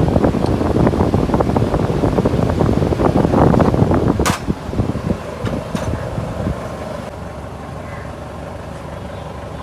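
Toyota GLi engine running with a dense, rapid clatter for about four seconds. After a sharp click it settles to a quieter, steady run. The clatter is typical of the loose tappets (valve clearances) the mechanics find on this engine.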